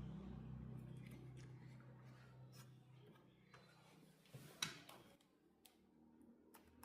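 Near silence with faint scattered clicks and taps, one sharper than the rest about four and a half seconds in, while a low hum dies away over the first three seconds.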